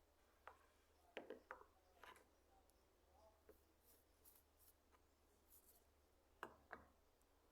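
Faint, scattered clicks and light taps of small parts or tools being handled, with a cluster of them a little over a second in and a pair near the end.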